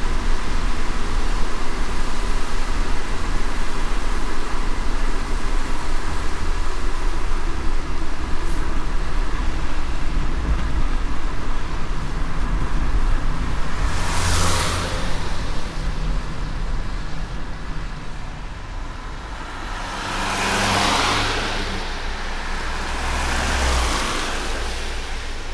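Car driving on a rain-wet road: steady low road rumble and tyre hiss, with three louder whooshes about halfway through and near the end.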